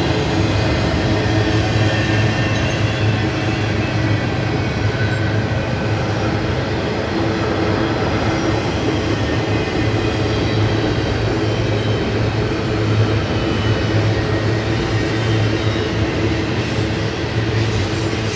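Double-stack container train's loaded well cars rolling past close by: a steady rumble of steel wheels on rail.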